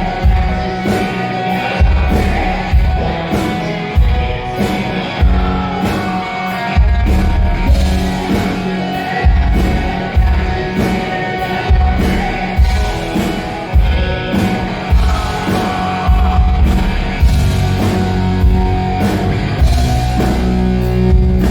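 Rock music with a heavy drum beat about once a second and singing.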